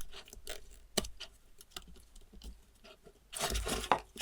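Light clicks and taps of small metal parts and tools being handled during hand assembly on a workbench, with a short scraping rustle near the end.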